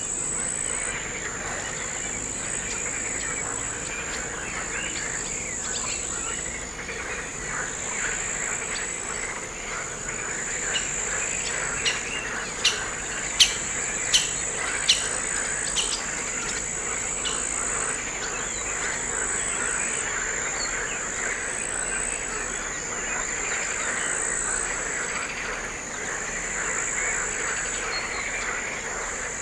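Crickets trilling in a high, steady chorus that drops out and resumes in long stretches, over a dense background of chirping calls. A short run of about six sharp clicks comes about halfway through.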